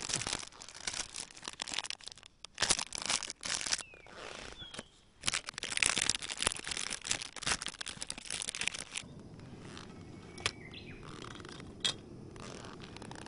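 Dense crackling and rustling, like something being handled, that stops suddenly about nine seconds in. A few short bird chirps sound faintly in the background.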